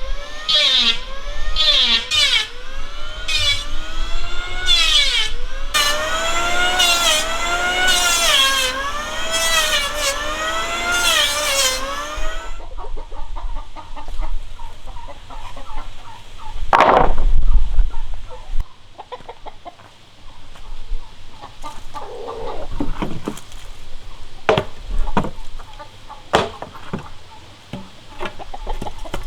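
Chickens calling over and over for about the first twelve seconds, each call a short rising-and-falling cry. After that come scattered knocks and clicks, with one louder, deeper thump about seventeen seconds in.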